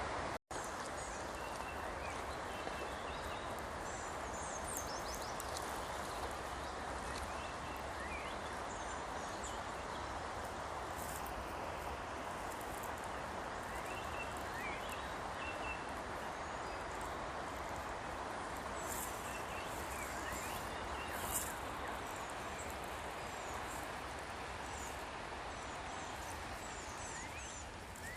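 Steady outdoor background hiss with faint bird chirps and short calls scattered through it. The sound cuts out for a moment about half a second in.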